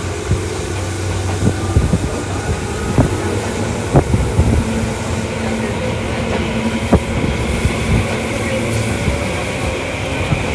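A Tokyu Toyoko Line commuter train running at speed, heard on board: a steady rumble of wheels on rail with irregular sharp clicks from the track. A high motor whine rises gently in the second half.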